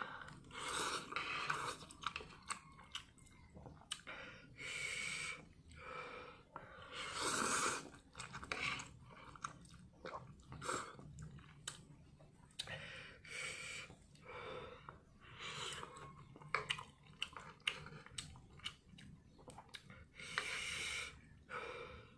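Close-up chewing and slurping of Samyang Buldak spicy instant ramen noodles eaten with chopsticks: irregular wet mouth noises, short slurps and small clicks.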